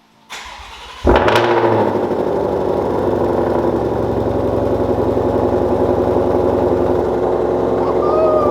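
Ford Shelby GT500's V8 cranked briefly by the starter, catching with a sudden loud burst about a second in. It then settles into a steady, loud cold-start idle.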